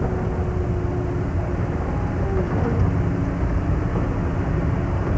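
Steady low rumble of an amusement-park ride train in motion, carrying on evenly with no sudden events.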